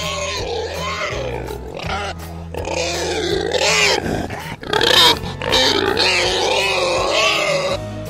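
Pig grunting and squealing in a run of bending, drawn-out calls, loudest near the middle, over background music with a steady bass.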